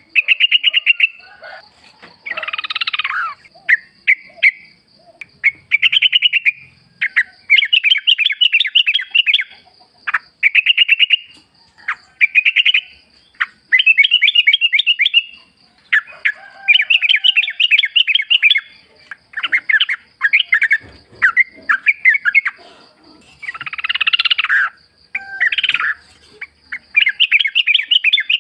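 Yellow-vented bulbul (trucukan) singing: one short, bubbly phrase of quick notes after another, each about a second long with brief pauses between. A faint steady high tone runs behind.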